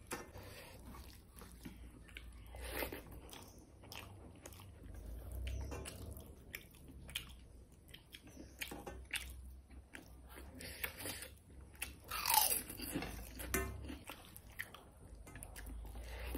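Mukbang eating sounds: a person chewing and biting mouthfuls of rice and curry eaten by hand, with many small irregular mouth clicks.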